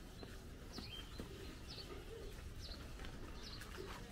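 Faint birdsong: short high chirps repeating about once a second, with faint low calls underneath.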